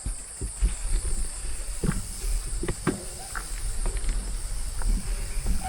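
Steady high-pitched insect drone of the forest, with scattered knocks and clicks from mountain bikes on the trail over a low rumble.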